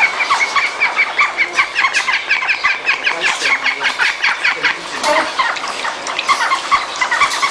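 Birds calling in a fast run of short, high chirps, about six a second, which breaks off for a moment about two thirds through and then starts again.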